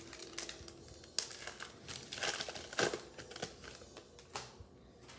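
Plastic trading-card pack wrapper crinkling and tearing as it is opened by hand, in irregular crackling bursts.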